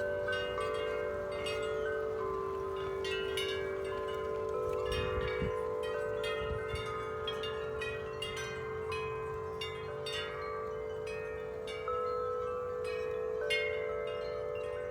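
Several sets of large tuned wind chimes, including Corinthian Bells and Bells of Vienna, struck constantly by strong wind. Deep tones ring on beneath a steady stream of overlapping higher strikes, and a low gust rumble comes briefly about five seconds in.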